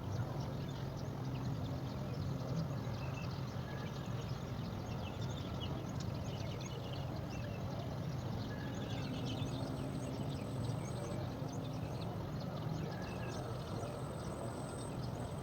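Faint, quick, high chirping of small birds over a steady low background rumble.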